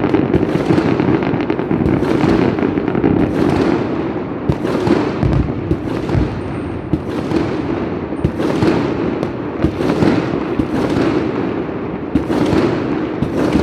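Fireworks exploding close by in a dense, continuous barrage: rapid overlapping cracks and bangs, several a second, with deeper booms among them.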